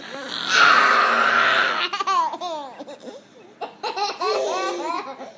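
A small child's loud, raspy shriek lasting about a second and a half, followed by two runs of quick giggling laughter.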